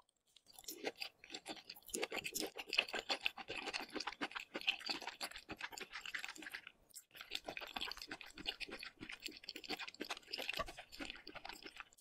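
Close-miked chewing of a mouthful of raw salmon in sauce: a dense run of small mouth clicks, with a brief pause about seven seconds in.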